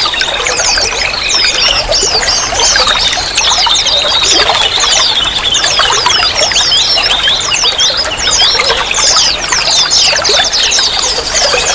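Running, trickling water, steady and loud, with a dense stream of quick high chirps over it.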